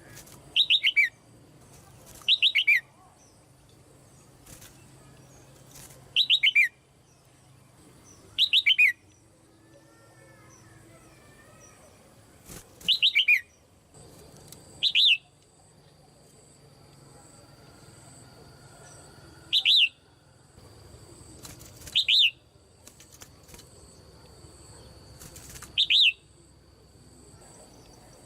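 Caged female red-whiskered bulbul calling: nine short, loud bursts a few seconds apart, each a quick run of high notes sliding downward.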